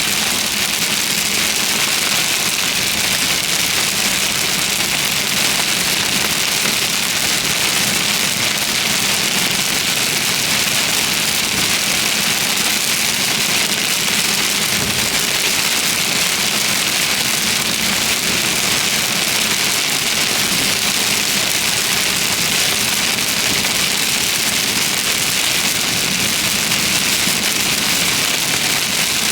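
Heavy thunderstorm rain pouring steadily, an even hiss with a faint low hum underneath.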